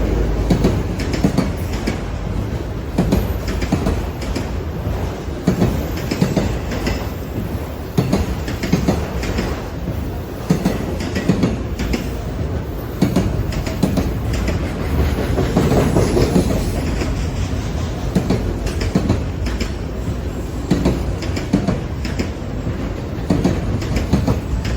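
Train rolling past, its wheels clacking over the rail joints in a long series of knocks above a steady low rumble.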